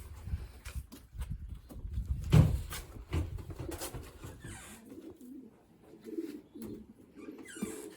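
Racing pigeons cooing, a run of short low coos through the second half, with handling clicks and a sharp knock about two seconds in.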